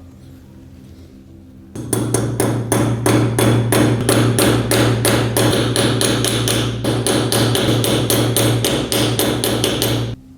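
A hammer striking metal in a rapid, even run of blows, about five a second, starting about two seconds in and stopping shortly before the end, with a steady low hum under the strikes.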